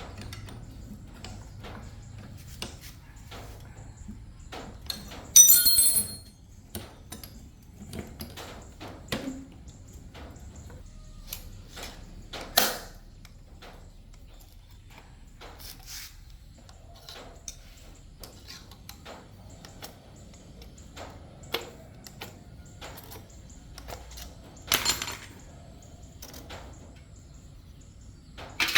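Workshop handling of metal tools and parts: scattered clicks and knocks, with a loud ringing clang about five seconds in and sharper knocks about halfway through and near the end.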